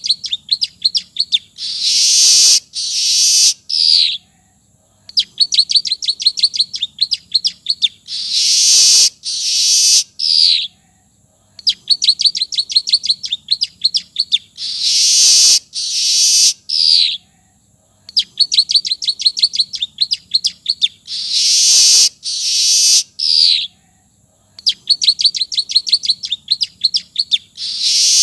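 Manyar (weaver) song with imitated ciblek (bar-winged prinia) phrases: a fast run of short dry ticking notes, then two or three loud buzzy phrases ending in a falling note. The same phrase repeats about every six and a half seconds, four times over, as in a looped training recording.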